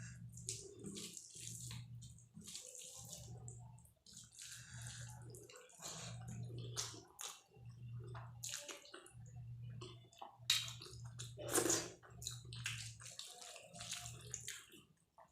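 Close-miked chewing and wet mouth smacking of a mouthful of dal and rice, a quick run of small sticky clicks and squelches, with one louder, sharper bite or smack about eleven and a half seconds in.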